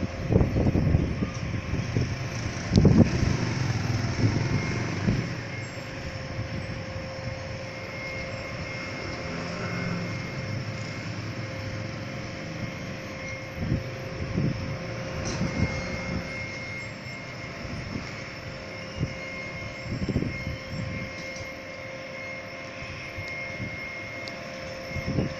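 Gusty storm wind buffeting the microphone in low rumbling gusts, strongest in the first few seconds and returning briefly several times, over a steady faint high hum.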